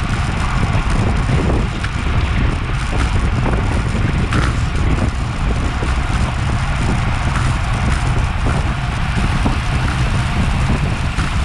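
Steady wind buffeting an action camera's microphone while riding a road bike at race speed, a loud low rush without pauses.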